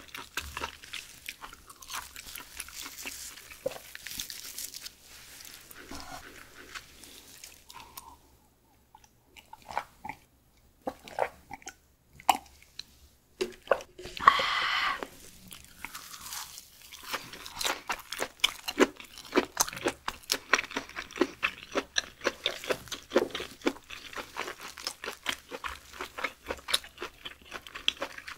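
Close-miked eating sounds: crisp crunching bites of a dried green seaweed sheet and wet chewing of raw beef, as a run of quick crackles and clicks. A loud burst of crunching comes about halfway through, after a couple of short pauses.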